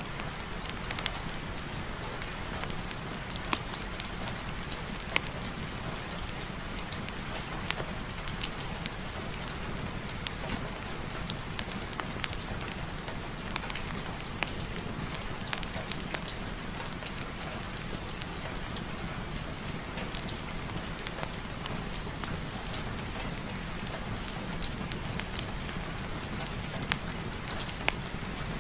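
Steady rain falling, with many scattered sharp drop pops throughout.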